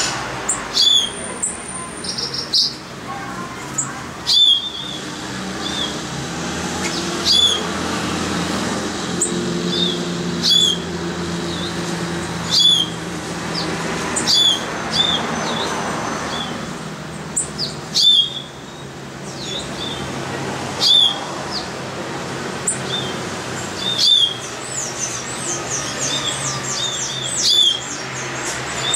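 A bird repeating a sharp, high, sweeping call every second and a half to three seconds. A quick run of high chirps comes a few seconds before the end, over a steady low background hum.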